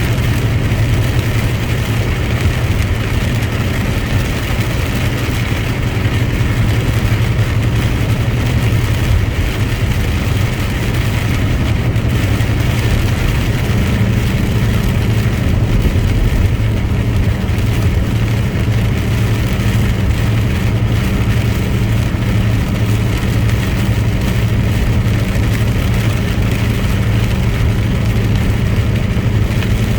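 Truck engine running steadily under road noise, a constant low hum with no change in speed.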